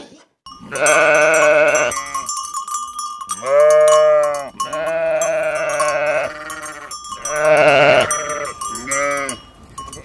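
A flock of sheep bleating: a string of long, quavering bleats from several animals, one after another and often overlapping.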